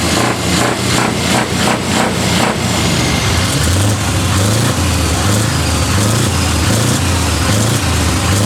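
Heavy truck diesel engine running, with a rapid even pulsing for the first couple of seconds, then a deep steady throb.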